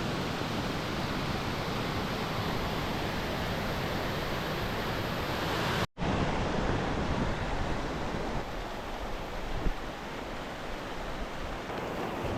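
Waterfall rushing steadily, in high flow after heavy rain. The sound cuts out for an instant about six seconds in and comes back a little quieter.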